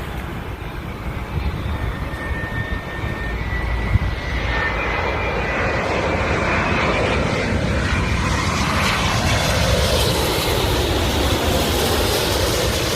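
Airplane engines growing louder as the aircraft approaches, with a thin high whine rising slightly in pitch over the first few seconds before a broad roar takes over. A single short knock comes about four seconds in.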